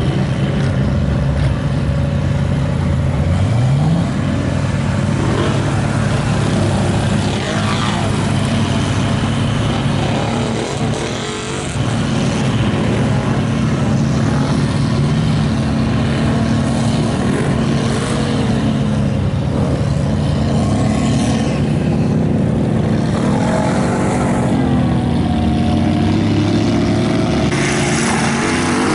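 Big engines of mega trucks running and revving, the pitch rising and falling as they are throttled, with one quick rise about three seconds in.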